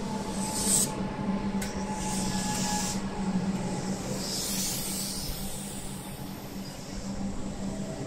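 Comeng electric suburban train rolling in along the platform as it slows on arrival, with a steady hum and several bursts of hiss, the longest about halfway through.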